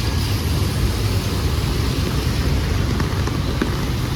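Street traffic noise, a steady rumble with low buffeting like wind on the microphone and a few faint ticks.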